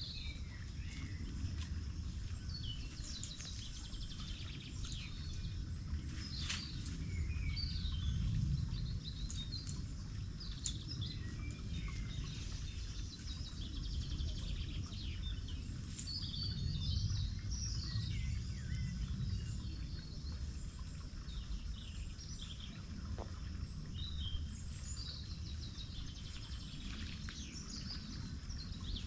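Several birds chirping and calling throughout, over a steady low rumble.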